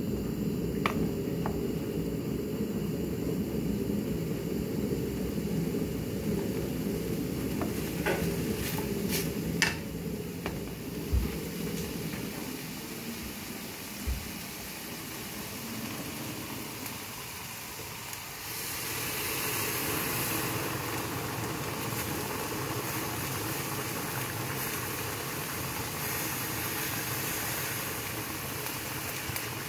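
Chicken and chorizo sizzling as they fry in a pan, with a wooden spatula stirring and knocking against the pan a few times. About two-thirds in, a louder steady hiss starts as water from the kettle is poured.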